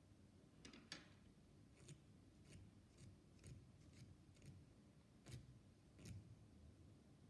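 Near silence broken by about ten faint, sharp clicks and taps at irregular intervals, the strongest about a second in and again about five seconds in.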